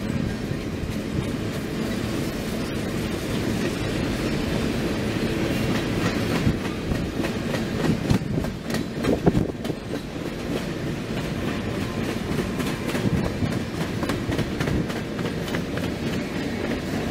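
Freight train of covered grain hopper cars rolling past, steel wheels clattering over the rail joints, with a few louder clanks about halfway through.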